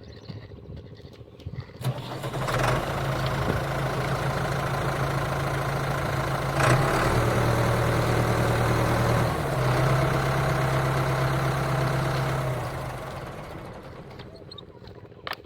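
Steady engine drone of a tractor-type engine, starting about two seconds in, shifting pitch a couple of times and fading out near the end.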